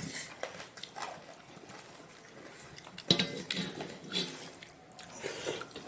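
Quiet clinks and taps of plates and utensils at a meal, with a brief faint voice about three seconds in.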